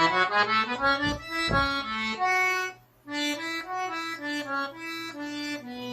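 Accordion playing a slow melody of single held notes, one after another, with a short break about three seconds in before the line carries on.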